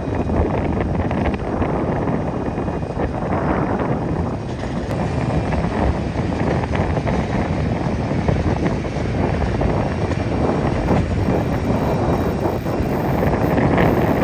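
Jet airliner on landing approach, its engines a steady rumbling roar that grows brighter and slightly louder near the end, mixed with wind buffeting the microphone.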